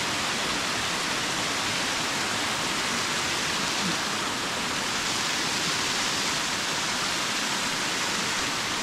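Steady roar of rushing river water, an even hiss with no breaks.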